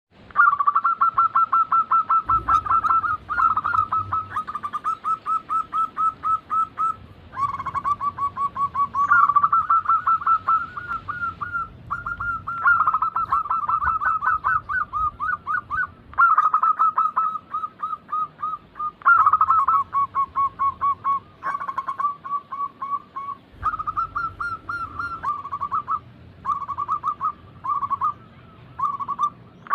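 Zebra doves (perkutut) cooing in long runs of rapid, staccato notes, phrase after phrase with short breaks. At times two birds' phrases overlap at slightly different pitches.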